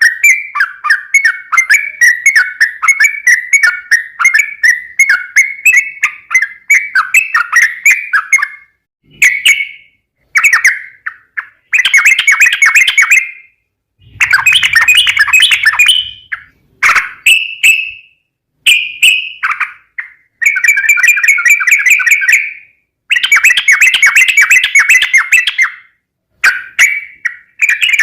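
Yellow-vented bulbul (trucukan) singing in fast, bubbly chattering notes. It runs unbroken for about the first eight seconds, then comes in short bursts with brief pauses between them.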